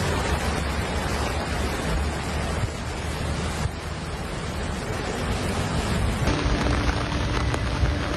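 Heavy rain pouring, a steady hiss with a low rumble underneath. The sound changes abruptly twice.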